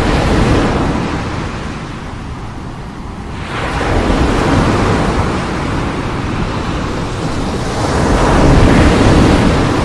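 Strong sea waves breaking and washing in, surging three times, about every four seconds.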